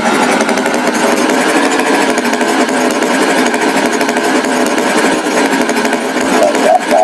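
Loud, steady rattling engine noise with a fast, even chatter.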